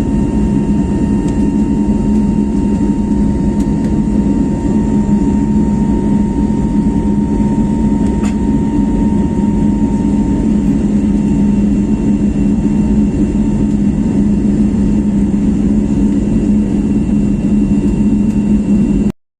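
Airbus A321neo's Pratt & Whitney PW1100G geared turbofan engines running steadily: a loud low rumble with a thin high whine over it. A fainter whistle-like tone fades out about ten seconds in, and the sound cuts off abruptly near the end.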